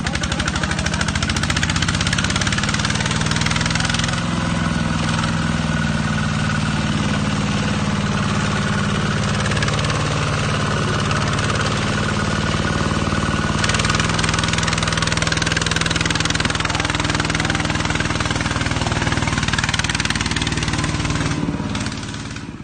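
An engine running steadily under a rushing noise, fading away near the end.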